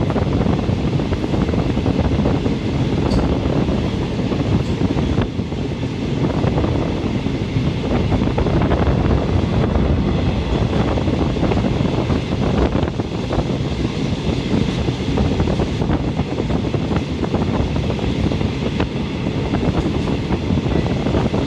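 State Railway of Thailand train heard from on board while running: a steady rumble of wheels on the track mixed with rushing wind.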